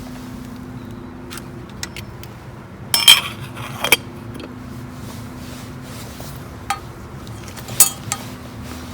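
Metal camp cookware knocking and clinking as the pot of boiled coffee is handled: a cluster of knocks about three seconds in, another just before four seconds, and single clinks near seven and eight seconds, over a steady low hum.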